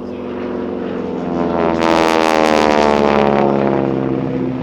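North American T-6 Texan's Pratt & Whitney R-1340 radial engine and propeller passing low. The engine note swells to a peak with a harsh propeller rasp about two seconds in, then falls in pitch and fades as the plane goes by.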